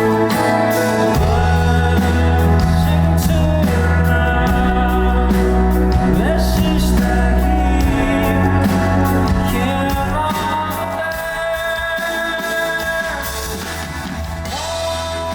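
Rock band playing live, with singing over drums and cymbals and long held bass notes; the band eases off a little in loudness about two-thirds of the way in.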